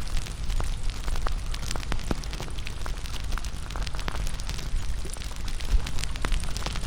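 Wood fire crackling, with many sharp irregular pops and snaps over a steady low rumble, mixed with soft raindrops falling into a puddle.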